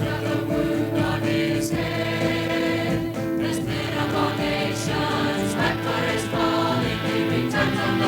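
Choir singing with instrumental accompaniment over steady held low notes, with a few short hissy strokes high up.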